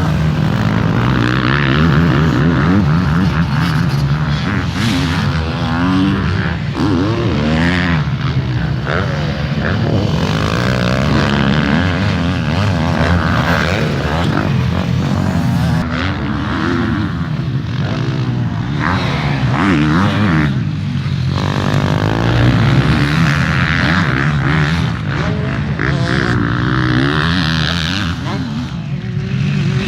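Several motocross bike engines running at once, revving up and down continuously as the bikes ride the track.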